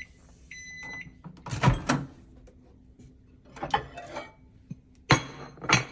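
Microwave oven ending its cycle: its running hum stops, it gives a short beep and then a longer half-second beep, after which the door clunks open and a dish is handled with several sharp knocks.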